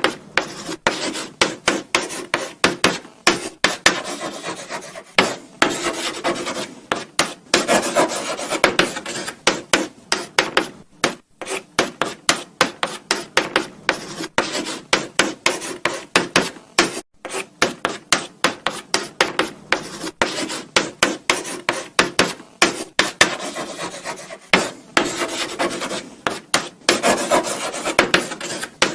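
Chalk writing on a blackboard: quick scratching strokes with light taps as the chalk meets the board, broken by stretches of longer continuous scraping.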